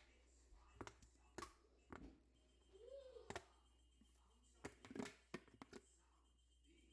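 Faint scattered clicks and light knocks, with one short squeak that rises and falls about three seconds in.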